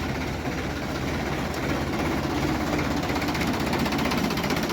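Sonalika DI 750 tractor's diesel engine running steadily, with a fast, even ticking rhythm that grows clearer in the second half.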